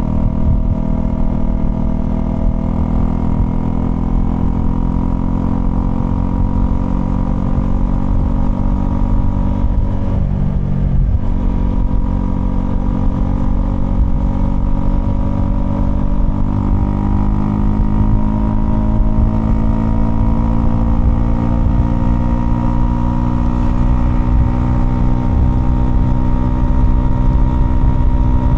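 Honda CL250's single-cylinder engine running as the motorcycle is ridden. Its pitch breaks briefly about ten seconds in, then climbs slowly and gets a little louder toward the end.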